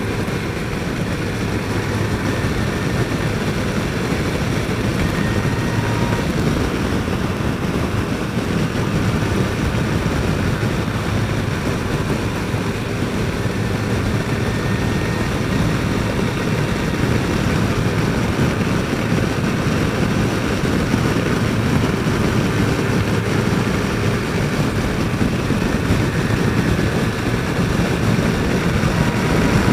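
Yamaha FJR1300 inline-four motorcycle engine running steadily at road speed under wind rush, heard from the rider's helmet mic.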